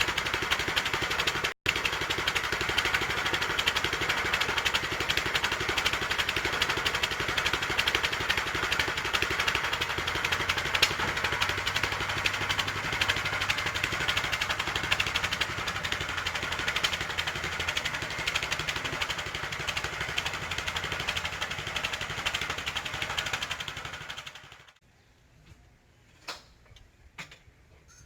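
Gas engine of a Harbor Freight portable bandsaw mill running steadily at speed, then cutting off sharply about 24 seconds in, leaving a few faint clicks.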